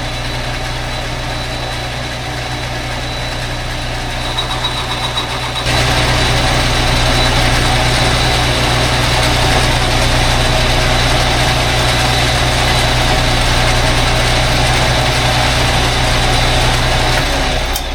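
Metal lathe running while boring out a motorcycle cylinder on its last cut: a steady motor hum with a thin high whine. It gets louder about six seconds in and drops back just before the end.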